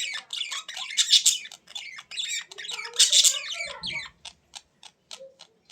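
Pet birds squawking and chattering harshly, then about four seconds in a quick run of sharp clicks, about five a second.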